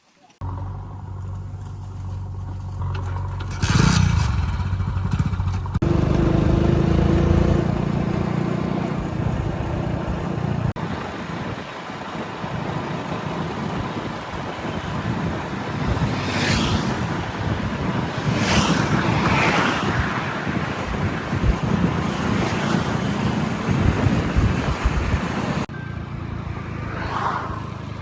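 Diesel engine of heavy machinery running under load, with a few short higher-pitched scraping or squealing sounds over it around the middle and near the end.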